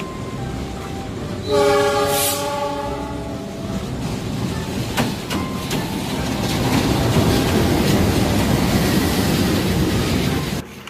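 Diesel locomotive sounding its horn about a second and a half in, a chord held for about a second and a half. It then passes close by with its passenger coaches: a rumble and wheel clatter that grows louder and then cuts off suddenly near the end.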